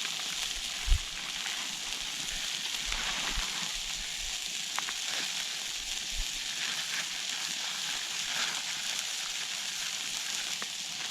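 Food sizzling over campfire embers, a steady hiss with a few small crackles of the fire. A single thump about a second in.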